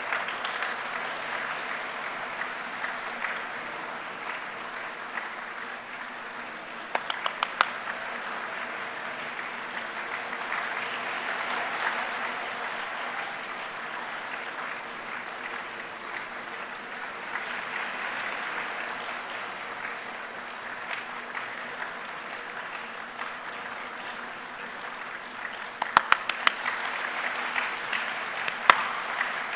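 A crowd making rain with their hands: many hands produce a steady, rain-like hiss that swells and fades. Clusters of sharp clicks come through about seven seconds in and again near the end.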